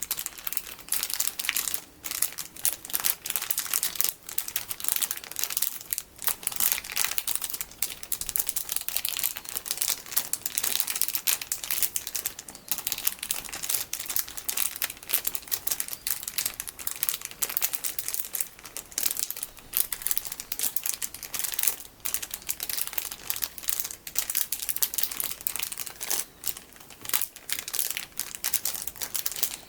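Plastic packaging holding bigger sticky beads being squeezed and handled, giving a dense, continuous crinkling and crackling with brief small lulls.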